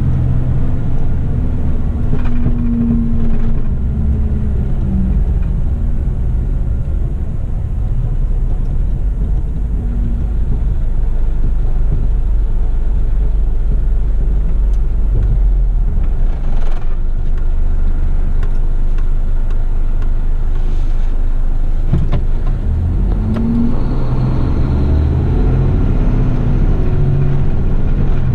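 Heavy rigid waste-collection truck's engine running as the truck drives, a steady deep rumble whose note falls a few seconds in and climbs again near the end as the engine speed changes.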